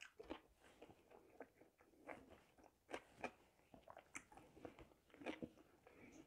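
Near silence with faint, scattered mouth clicks of a person chewing food with her lips closed.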